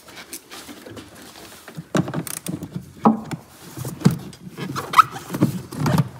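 Hands working loose plastic engine-bay parts on a BMW E60: irregular scraping, rubbing and short squeaks of plastic with knocks, busier and louder from about two seconds in. This is likely a cabin air filter being pulled out of its housing.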